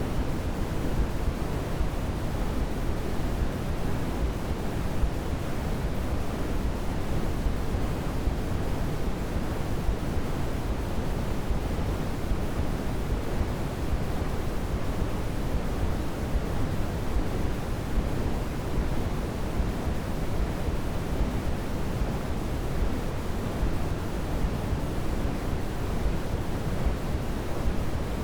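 Steady synthetic sleep noise for babies: an even, unchanging hush weighted toward the deep end, more like pink noise than bright white noise.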